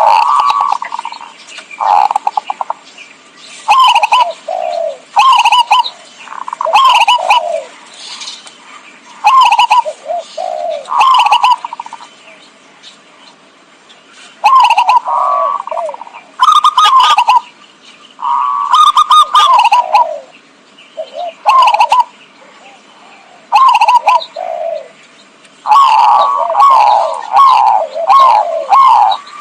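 Zebra dove (perkutut) lure call: phrases of quick, staccato coos that fall in pitch, repeated with short pauses between them and coming closer together near the end.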